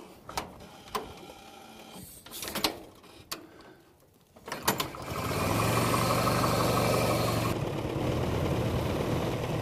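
Scattered clicks and knocks while the 1912 Ford Model T's engine is hand-cranked, then the four-cylinder engine catches about five seconds in and runs steadily.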